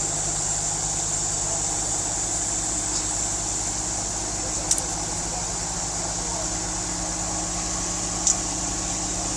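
A heavy vehicle's engine running steadily, with two short sharp clicks in the second half.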